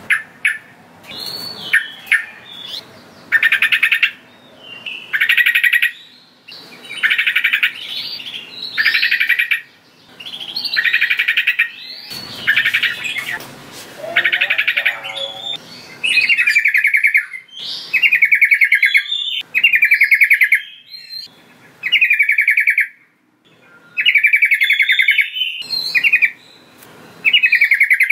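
Yellow-vented bulbul (trucukan) singing: loud, rapid chattering phrases repeated about every one to two seconds, used as a lure call to draw wild trucukan.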